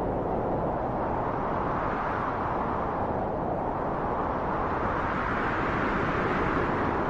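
Steady rushing wind, a deep continuous whoosh that swells and eases gently every few seconds.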